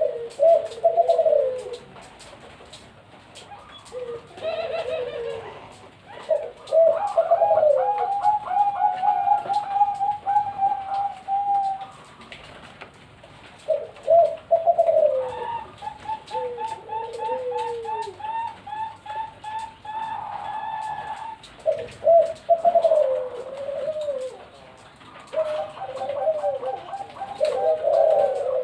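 Perkutut (zebra doves) cooing. Their song phrases are swooping coos alternating with long runs of quick, evenly spaced short notes, several to the second. Near the end, more than one bird seems to sing at once.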